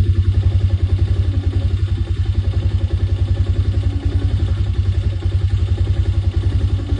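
Small vehicle engine running steadily, with a fast, even low pulse.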